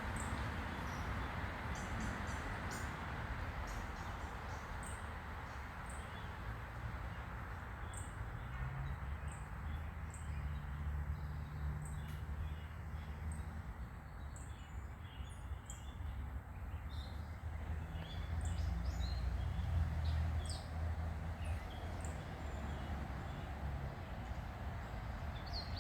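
Backyard ambience: scattered short, high bird chirps over a steady background hiss, with a low hum that grows louder twice, in the middle and later on.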